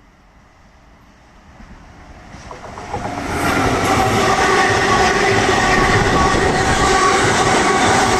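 A train approaching and passing close by, growing louder over the first three seconds or so, then a loud, steady rumble of wheels on rails with a ringing, tone-laden hum.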